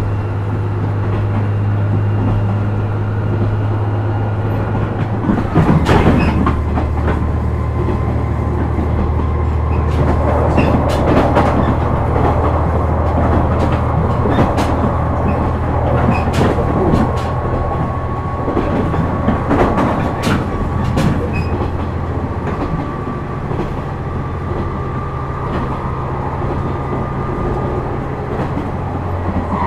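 KiHa 126 diesel railcar heard from inside while running: a steady diesel engine drone whose note drops about five or six seconds in. Over it come groups of wheel clicks over rail joints.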